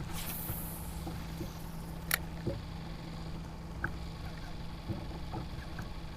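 Steady low engine-like hum, with a few sharp clicks, the sharpest about two seconds in.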